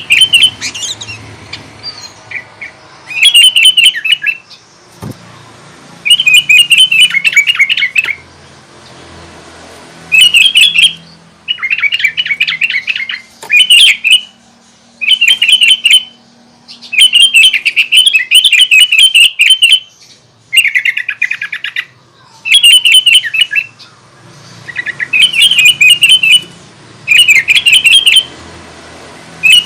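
Sooty-headed bulbul singing: short, loud phrases of rapid chattering notes, repeated again and again with brief pauses between them.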